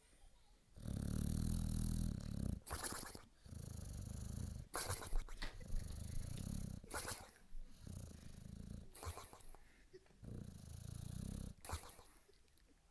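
Boxer dog snoring in deep sleep: about six low, rumbling snores roughly two seconds apart, with a short sharp sound between them, growing fainter near the end.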